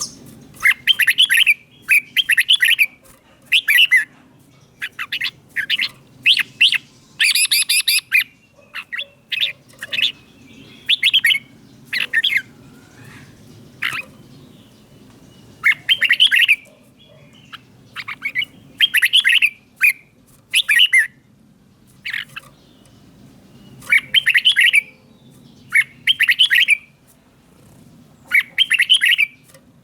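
Red-whiskered bulbul singing: short song phrases repeated every second or two, with brief pauses between them.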